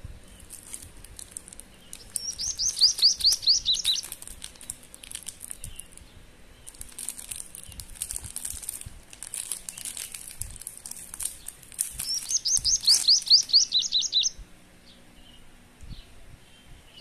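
A bird sings twice, each phrase a quick run of about ten descending high notes. In between, a plastic candy wrapper crinkles as it is handled and opened.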